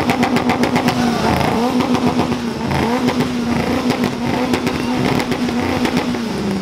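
Car engine revved hard and held at high revs, its note dipping briefly several times, with a rapid crackle through the first couple of seconds.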